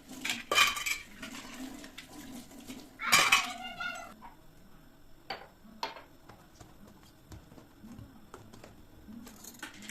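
Kitchenware clinking and clattering as it is handled: a few sharp knocks, the loudest about three seconds in, then lighter scattered taps.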